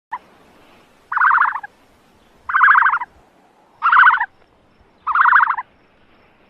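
An animal call repeated at a steady pace: five calls about 1.3 seconds apart, each about half a second long and made of rapid pulses.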